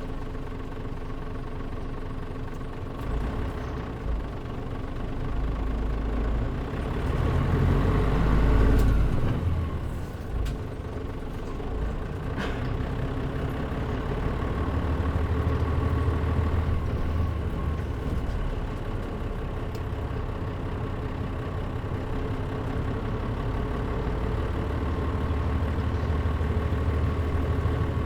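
KL-MP37JM city bus's diesel engine running, heard from inside the passenger cabin. It builds up to a louder pull about eight seconds in, eases off, then pulls steadily again, with a steady whine running through it. A single brief click comes a few seconds after the loudest moment.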